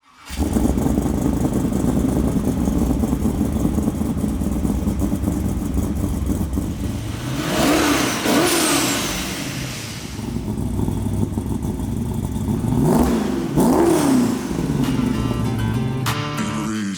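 Twin-turbo V8 of a 1974 Holden HQ Statesman idling with an uneven rumble and revved twice, about halfway through and again near three-quarters. Each rev climbs and falls back to idle, and a high whistle falls away after the first. Music starts just before the end.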